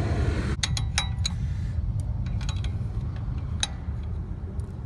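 A few light metallic clicks and clinks from hand tools and car parts being handled, over a steady low hum.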